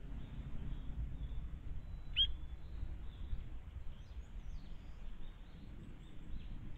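A single short, sharp bird call about two seconds in, dropping quickly in pitch, over a steady low rumble; faint distant bird calls follow later.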